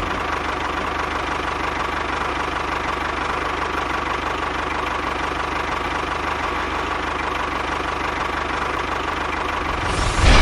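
A small motor running steadily with a thin steady whine and a fine rapid pulsing underneath, then a louder noise near the end.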